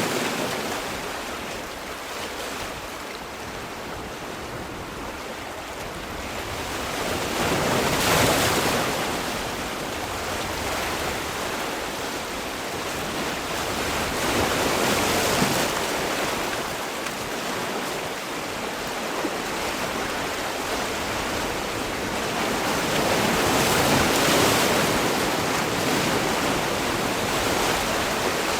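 Sea waves breaking on a shore, one surging in every seven to nine seconds, with a steady wash of surf between.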